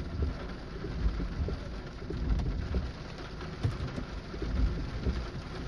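Heavy rain pouring steadily, with a low rumble under it and scattered sharper taps of drops.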